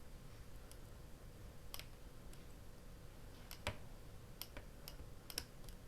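Light, scattered taps and clicks of ink pads being dabbed onto a rubber stamp, about half a dozen in a few seconds.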